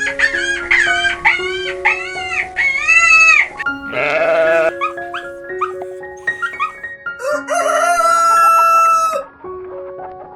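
Animal calls over background music: a quick run of short rising-and-falling cries, then a rougher call at about four seconds and one long drawn-out call near the end, with held music notes underneath.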